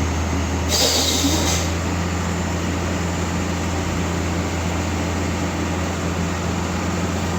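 Heavy truck's diesel engine labouring steadily at low revs as it climbs a steep, slippery grade, with a short hiss about a second in.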